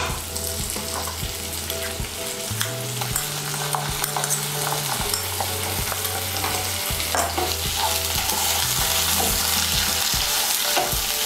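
Onions, tomatoes and whole spices frying in oil in a non-stick kadai: a steady sizzle that grows louder in the second half, with the scrapes and taps of a spatula stirring the pan.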